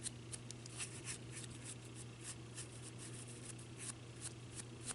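Light, irregular scratchy brushing and rustling of hand craft work on an ornament's surface: a soft brush and fingers working gold foil flakes. A low steady hum runs underneath.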